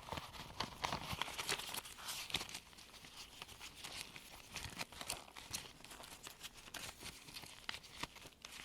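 US $1 paper bills being counted hand to hand with gloved fingers: a run of crisp paper snaps and flicks over a steady rustle. The flicking is busiest in the first couple of seconds, then softer and sparser.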